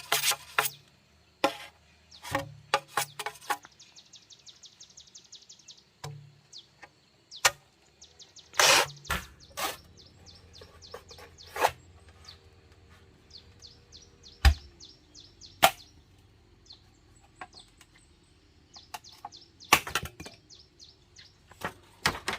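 Scattered sharp knocks and taps at irregular intervals, with a quick run of high ticks a few seconds in and faint bird chirps between them.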